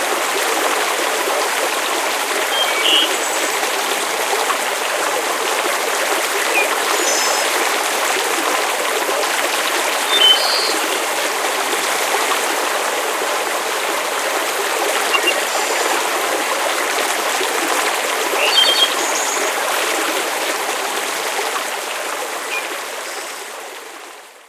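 Steady rushing water ambience, with a few brief high chirps scattered through it; it fades out near the end.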